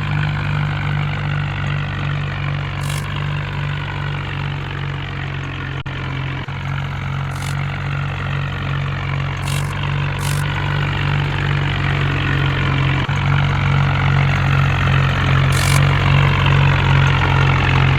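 A heavy vehicle's engine running steadily at idle with a low, even hum, growing a little louder over the last few seconds. A few brief high hisses come through along the way.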